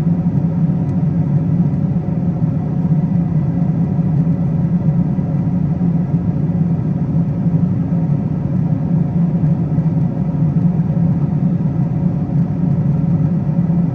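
Boeing 777-200ER cabin at cruise heard from an economy seat: a steady, even rumble of airflow and engines, with faint constant hum tones above it.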